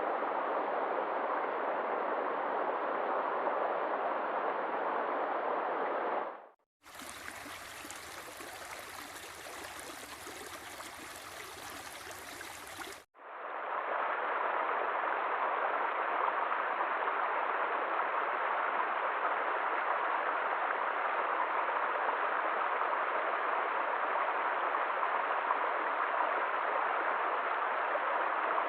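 A stream of flowing water, a steady rush. About six seconds in it cuts out and gives way to a quieter, hissier sound. The flowing water fades back in after about thirteen seconds and runs on steadily.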